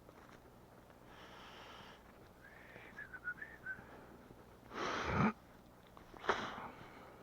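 Damp, green firewood in a struggling campfire giving off a thin, wavering whistle for about a second, the sign of moisture boiling out of the wood. Two loud rushes of air follow, a longer one about five seconds in and a short one a second later.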